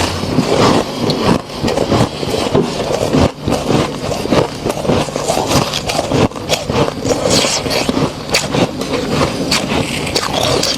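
Thick frost buildup inside a freezer being scraped and crushed: continuous dense crunching and crackling.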